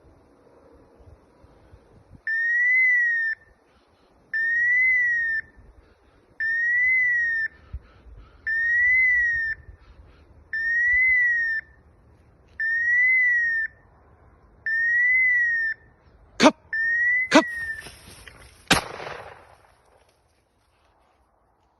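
A whistle tone that rises and then falls, repeated eight times at an even pace of about one every two seconds, each note identical. Near the end come three sharp cracks, then a short rush of noise.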